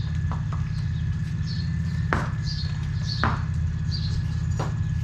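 Small birds chirping in short calls, several times, with a few sharp knocks about a second apart over a steady low rumble.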